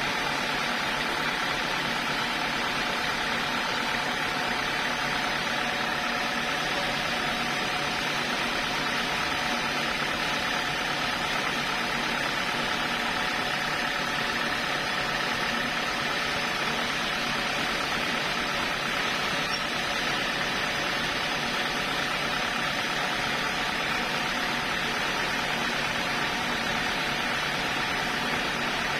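Sawmill saw machinery running steadily: a constant drone with several fixed tones over a hiss that holds an even level throughout.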